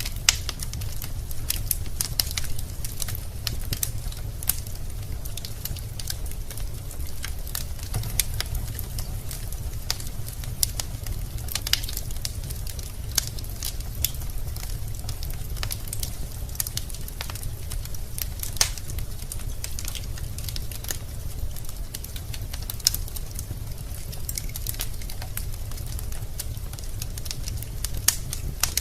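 Wood fire crackling in a fireplace: frequent sharp pops and snaps of burning logs at irregular intervals over a steady low rumble of the flames.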